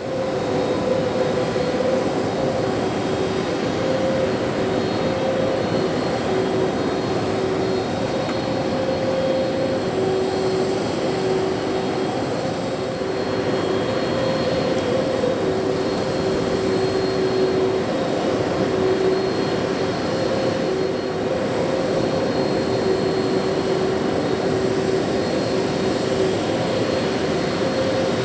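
Aircraft engine running steadily on the ground: a continuous loud rush of noise with a pair of wavering mid-pitched whining tones.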